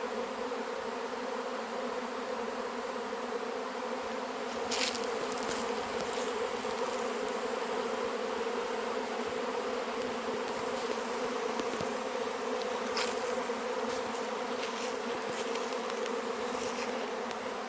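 Dense, steady buzzing of a large honey bee swarm in flight all around, the hum of a swarm settling on a hive box, with a few brief sharp ticks now and then.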